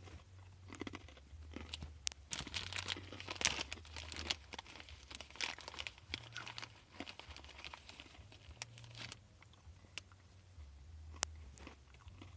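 Hard sourdough pretzel pieces crunching as they are bitten and chewed, with the thin snack bag crinkling, in irregular crackly bursts and a few sharp clicks.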